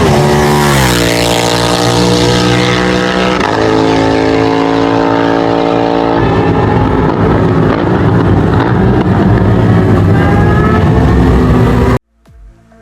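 BMW F900R parallel-twin engine heard on track under wind rush. The revs drop steeply about half a second in, step up in pitch a few seconds later and hold steady, then the engine note fades into the rush of wind. The sound cuts off suddenly near the end.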